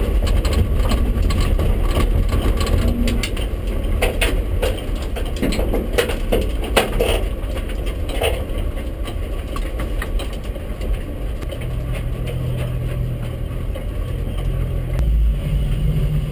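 BMW rallycross car's engine running at low revs, heard from inside its stripped cabin, with scattered clicks and rattles as the car rolls slowly; the engine note steadies into an idle about two-thirds of the way through.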